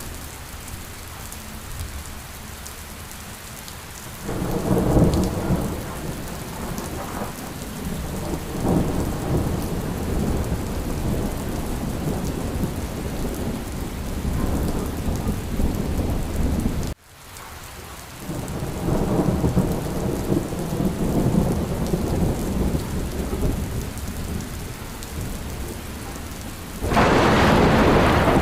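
Steady rain with rolling thunder: a long low rumble builds about four seconds in and another follows just past the middle, after the sound briefly cuts out. A louder, brighter peal of thunder breaks near the end.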